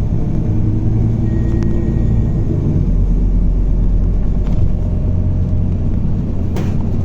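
Scania K280UB bus running with a steady low engine rumble, heard through a phone microphone, with a faint whine in the first couple of seconds. A sharp knock comes near the end.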